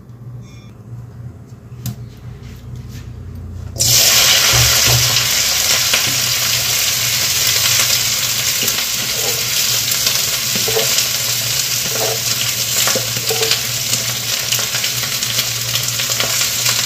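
Chopped kundru (ivy gourd) sizzling in hot oil in an iron kadhai on a gas burner, a steady frying hiss that starts abruptly about four seconds in after a quieter stretch of a few clicks. Faint ticks sound over the sizzle.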